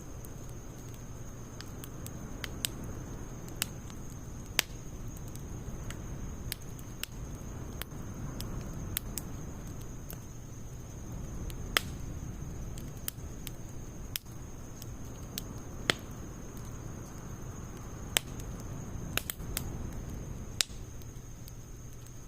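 Firewood burning in an open campfire, with sharp, irregular crackles and pops about once a second over a low, steady rush of flame.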